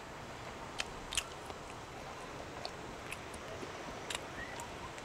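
A person chewing food, with faint short mouth clicks and smacks now and then, over a steady background hiss.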